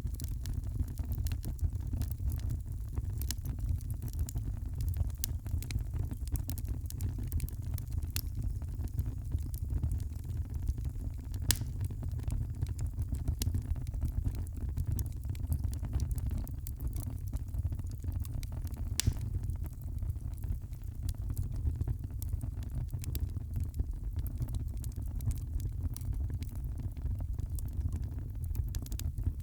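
Fire in a fireplace crackling: a steady low rumble of flames under frequent, irregular small pops and snaps, with two louder pops standing out, one about a third of the way in and one about two-thirds in.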